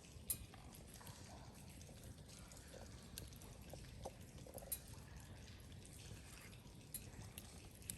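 Wood campfire crackling faintly, with a few sharp, scattered pops over a low rumble.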